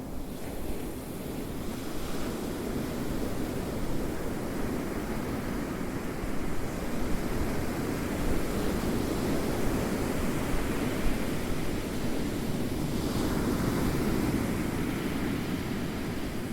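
Ocean waves rolling and breaking on a shore, a continuous wash of surf that swells and eases gently.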